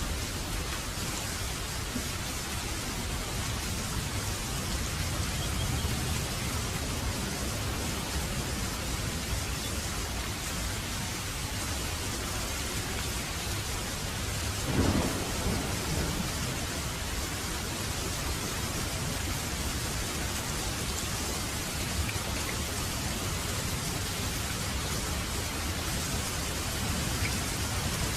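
Heavy rain falling steadily, with low rumbling thunder beneath it and a brief louder burst about halfway through.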